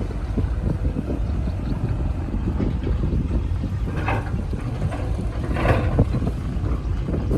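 Bulldozer diesel engine running with a steady low rumble, with two brief higher-pitched rasps about four and nearly six seconds in.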